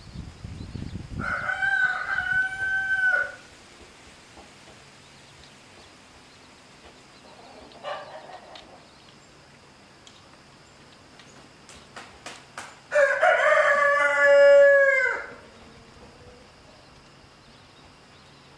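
Rooster crowing twice: one crow about a second in and a second, louder crow near the end, with a few faint clicks just before it.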